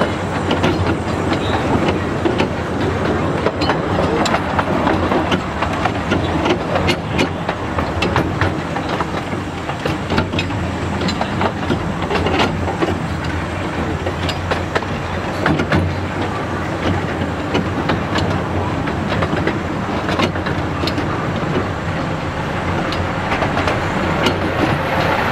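Miniature 15-inch-gauge steam railway train running, heard from an open carriage: a steady rumble of wheels on rails with frequent clicks and rattles from the track.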